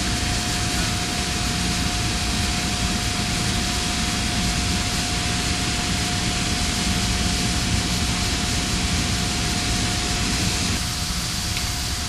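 Steady rushing machinery noise with a strong low rumble and one constant whine running through it. The rumble thins out near the end.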